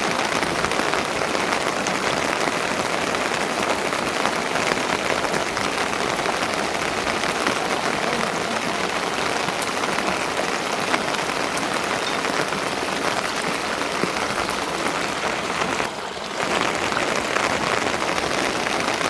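Steady rain falling: a dense, even hiss of many small drops that dips briefly about sixteen seconds in.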